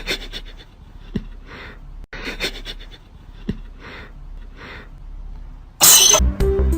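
Repeated hoarse coughing, about one cough a second with breathy pauses between. Near the end a loud burst cuts in and music with a low, steady beat begins.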